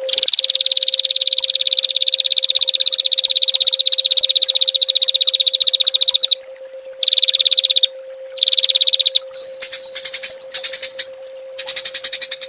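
A small songbird's 'tembakan' trill: a very fast, even run of pulses that stops about six seconds in. Two shorter trills follow, then higher, harsher pulsed bursts near the end, over a steady low tone.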